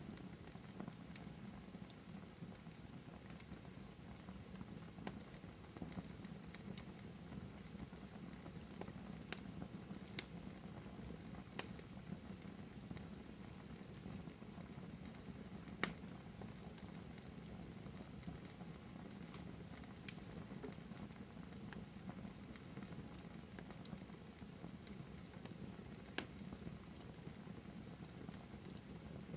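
Wood fire burning in a fireplace: a soft steady crackle with scattered sharp pops, the loudest about ten, twelve, sixteen and twenty-six seconds in.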